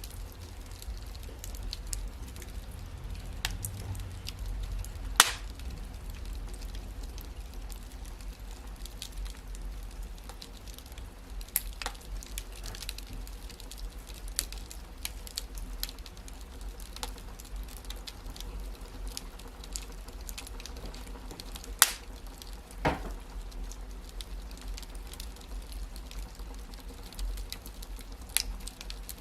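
Wood fire crackling in a fireplace: scattered sharp pops over a steady low rumble of the flames, with a few louder snaps about five seconds in and again twice near three-quarters through.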